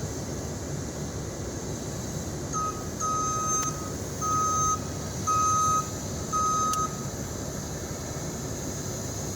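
Dump truck's engine running steadily while its reversing alarm beeps: a short chirp, then four even beeps about a second apart, stopping around the middle of the stretch.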